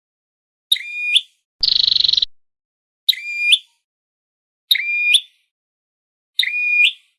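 Flowerpecker calls played as a trapping lure: four short, repeated call notes, each ending in a quick upward sweep. A harsh buzzing note comes about two seconds in.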